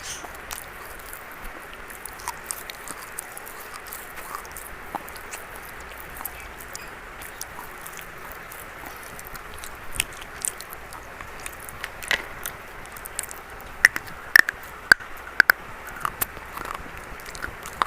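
Close-up crunching as someone bites and chews a dry, brittle brown 'biscuit' piece, with many short sharp crunches throughout and the loudest cluster about twelve to sixteen seconds in.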